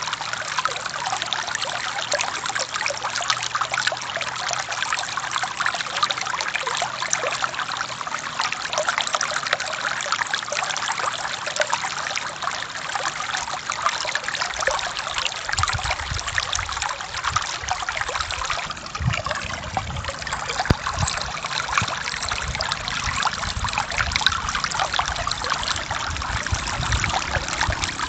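Forest stream flowing over rocks: a steady splashing, trickling rush of water. About halfway through, an irregular low rumble joins in underneath.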